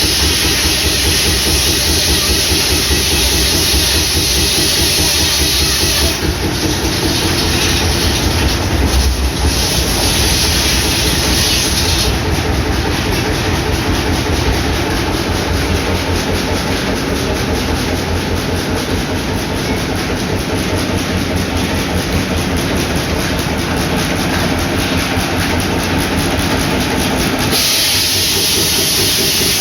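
Circular sawmill running, driven by a hot-bulb engine with a steady, even beat, with the hiss of the saw and chip blower over it. The hiss changes about 6 and 12 seconds in and again near the end.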